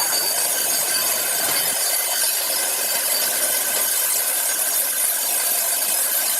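Large power saw cutting through a log with a steady hissing noise and a faint whine.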